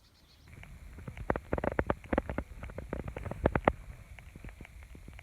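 Footsteps crunching in snow: an irregular run of crunches and clicks, thickest about a second to four seconds in, over a faint steady high whine.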